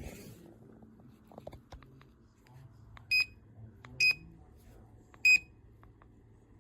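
Three short, high electronic beeps from an automatic bark collar, spaced about a second apart, with a few faint clicks between them.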